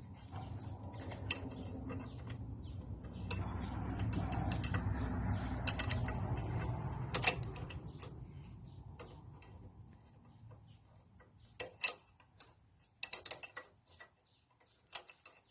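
Hand tools working the fittings of the injector bypass pipe on a Lister SR3 diesel engine: scattered metallic clicks and taps. A low rumble swells and then fades away over the first half.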